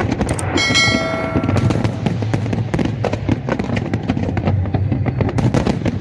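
Aerial fireworks going off in a dense, continuous series of sharp pops and crackles. About half a second in, a steady ringing tone sounds for about a second over them.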